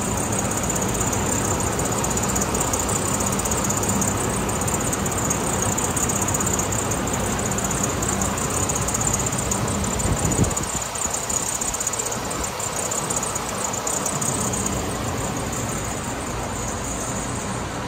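2006 Hummer H3's 3.5-litre inline-five engine running at a steady idle, with a brief bump about ten seconds in.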